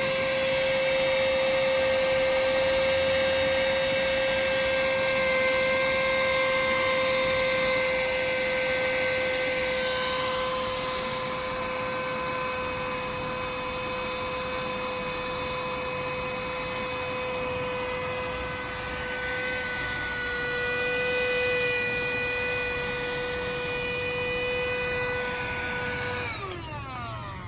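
Cordless 12 W rechargeable handheld mini vacuum cleaner running with a steady high-pitched motor whine, its suction so weak that it hardly pulls dirt from the carpet. Near the end it is switched off and the whine drops in pitch and dies away.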